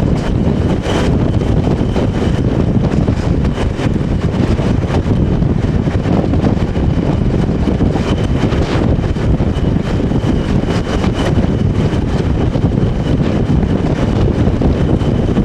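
Class 20 diesel locomotive D8188 hauling the train, its English Electric engine running steadily and loudly, heard with wind buffeting the microphone. A faint steady high tone sits over the engine noise.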